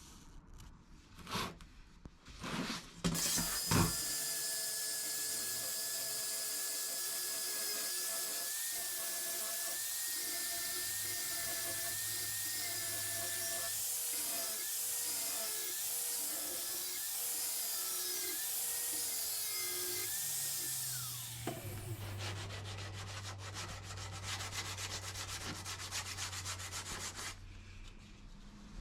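Handheld electric power tool sanding steel plate. After a few knocks, a steady motor whine with abrasive scraping runs, its pitch wavering under load, then winds down after about 20 seconds. A lower-humming tool with a fast, fine rattling scrape follows until near the end.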